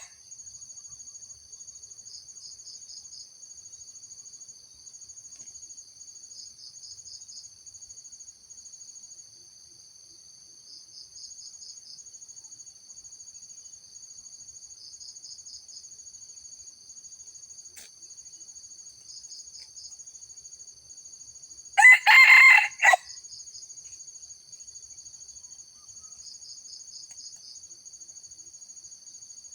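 A junglefowl rooster crows once, a short, clipped crow of about a second, about three-quarters of the way through. Steady high-pitched insect chirring pulses underneath the whole time.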